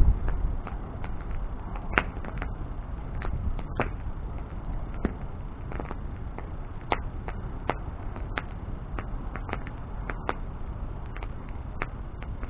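Wood bonfire crackling and popping: irregular sharp snaps, a few each second, over a low steady rumble.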